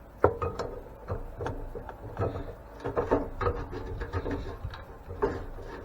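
A seized part on an antique grain mill being worked loose: irregular scraping, creaking and clicking as it is forced round after years stuck fast.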